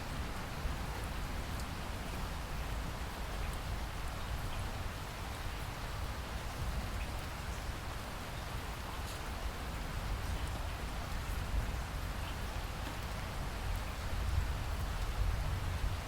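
Steady rain falling: an even hiss with scattered drops ticking, over a low rumble.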